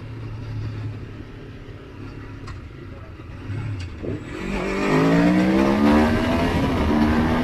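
Motorcycle engine running low and steady, then accelerating hard about four seconds in, its pitch rising quickly and getting much louder, with an upshift near the end before it rises again.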